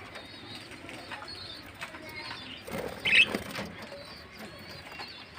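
A flock of lovebirds chattering with many short, high chirps, and one much louder, shrill squawk about three seconds in.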